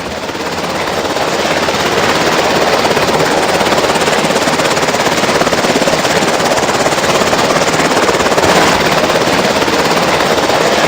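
Helicopter flying low overhead, its rotor and engine noise loud enough to drown out speech. It grows over the first couple of seconds, then holds steady.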